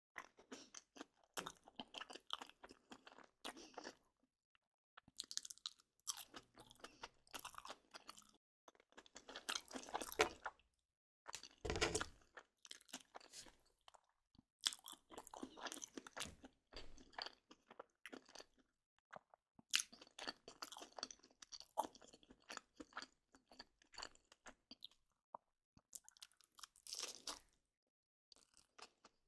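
Close-up crunching, like chewing crunchy food, in irregular bursts a few seconds long with short silent gaps between them.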